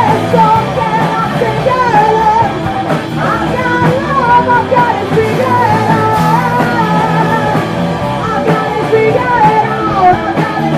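Punk rock band playing live on drums, bass and electric guitar, with a vocalist singing over it.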